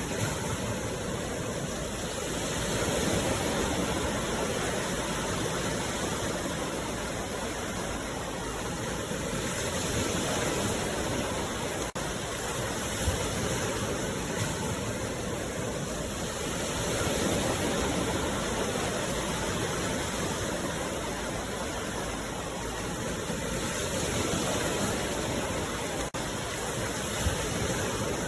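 Sea waves breaking and washing in, a steady rush of surf that swells and eases about every seven seconds.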